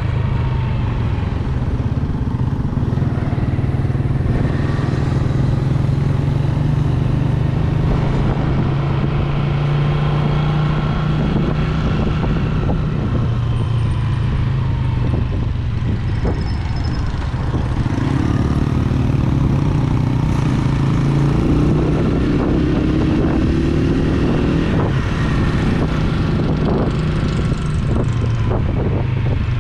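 Yamaha YBR125G single-cylinder four-stroke motorcycle engine running steadily while riding, with road and wind noise. A second, higher engine note rises for a few seconds past the middle.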